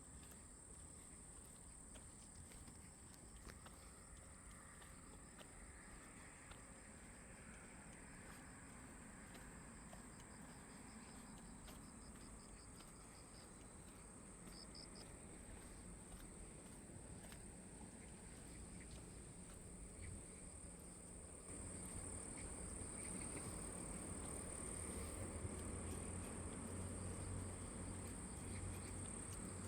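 Insects, crickets or similar, trilling steadily in one continuous high tone, faint against outdoor forest ambience. The whole sound gets louder about two-thirds of the way through.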